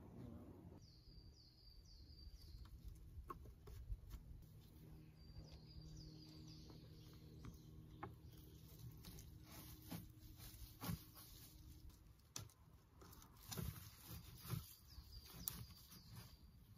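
A small bird calling faintly in three short runs of quick, repeated chirps, with scattered faint clicks and knocks between them.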